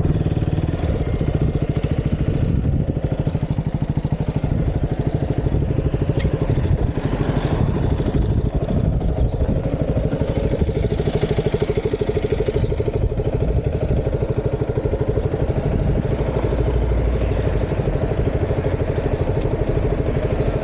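KTM Duke 200's single-cylinder engine running steadily while the motorcycle is ridden.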